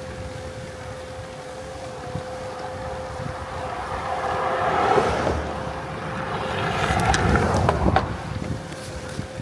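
Road and wind noise of a car being driven, a steady rumble and hiss with a faint constant whine, swelling twice in the middle, with a few sharp clicks near the end.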